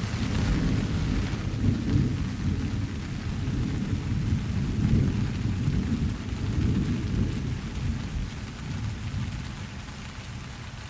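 Rolling thunder over steady rain: a low rumble comes in at the start, swells in several waves and slowly fades toward the end, with the hiss of rain throughout.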